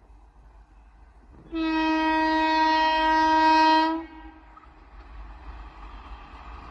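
Indian Railways WAP-4 electric locomotive's horn sounding one long, steady blast of about two and a half seconds, starting about a second and a half in. After it, a rush of noise slowly grows louder.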